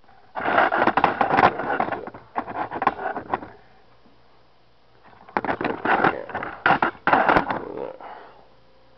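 Plastic packaging being handled and pulled apart, crinkling and rustling in two bursts of about three seconds each.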